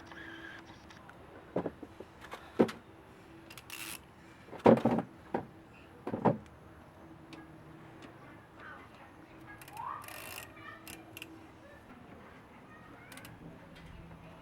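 Scattered knocks and clicks of objects being handled, the loudest about five and six seconds in, with a short hiss about ten seconds in.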